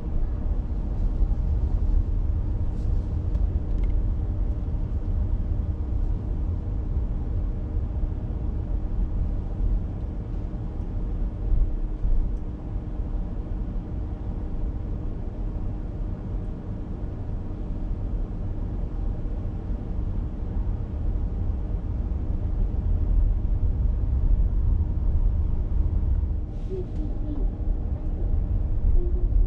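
Steady low road and engine rumble of a car being driven, with a faint steady hum and a few brief ticks near the end.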